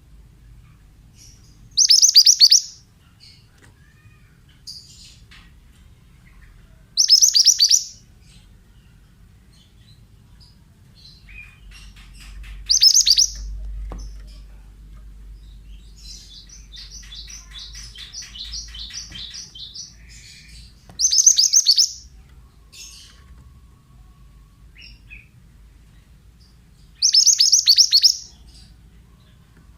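Mantenan songbird calling in short, loud bursts of rapid high-pitched chirps, five times, each under a second long. Between the third and fourth bursts comes a softer, longer run of quick repeated notes.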